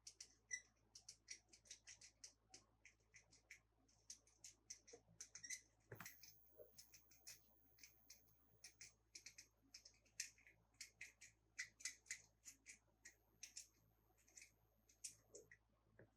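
Faint, irregular clicking and crackling of toy packaging being handled, a few small clicks a second.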